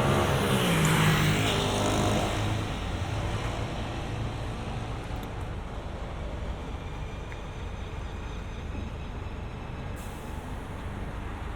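Road traffic: a motor vehicle passes close by in the first two seconds or so, its engine tone falling as it goes, then a steady hum of traffic and tyre noise.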